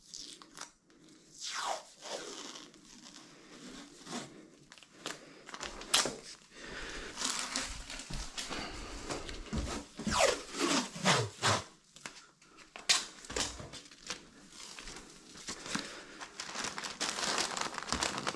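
Plastic crinkling and tearing in irregular handling noises, with a few longer rips.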